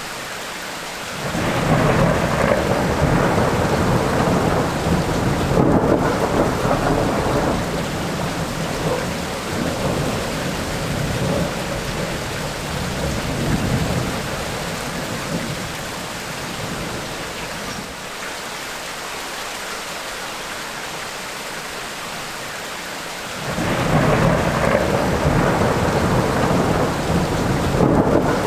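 Steady rain with two long rolls of thunder. The first rises about a second in and dies away over some fifteen seconds; the second starts near the end.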